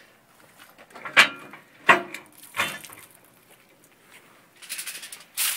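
Three sharp, slightly ringing metal clanks about two-thirds of a second apart, then a brief scraping rustle near the end, as smoked chicken pieces are lifted off a smoker.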